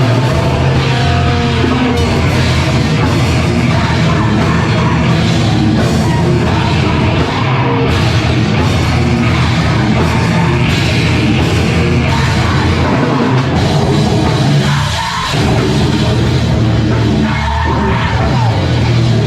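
A live rock band playing loud heavy music, with a full drum kit driving under dense, distorted instruments. The sound drops back briefly about 15 seconds in.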